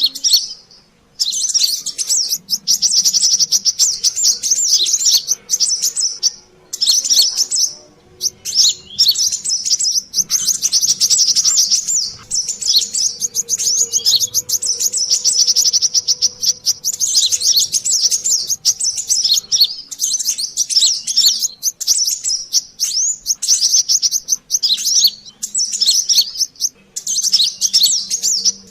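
Brown-throated sunbird (kolibri kelapa) calls played as a bird-lure track: long runs of rapid, high, busy twittering in phrases of one to several seconds with brief gaps.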